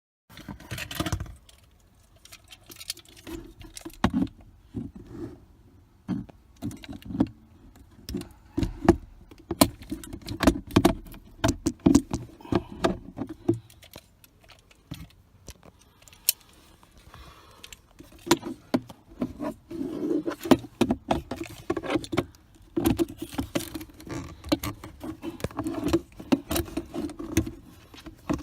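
Handling noises in a car's interior: irregular clicks, taps and rattles of plastic parts and loose items being moved by hand while the glove-box area is opened up to reach the cabin air filter.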